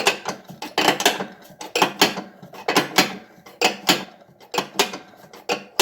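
A wrench working the jam nuts on a riding mower's deck-levelling rod, making a string of sharp, irregular metal clicks and clinks, a few a second.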